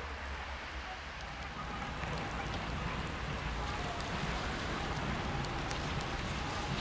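Light drizzle outdoors: an even hiss of rain with a steady low rumble underneath and a few faint ticks. It grows slightly louder about two seconds in.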